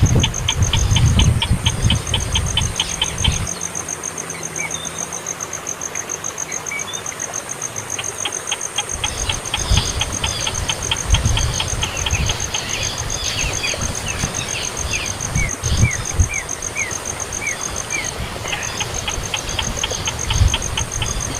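Baby bird begging, runs of rapid high chirps about five a second with a few short falling chirps in between, over a steady pulsing high insect trill and low rumbling noise.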